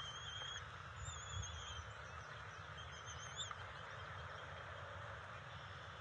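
Three thin, wavering high-pitched bird calls, each under a second, in the first few seconds over a steady outdoor hiss and low rumble.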